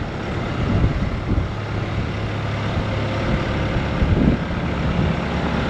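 Bobcat T66 compact track loader's diesel engine running steadily.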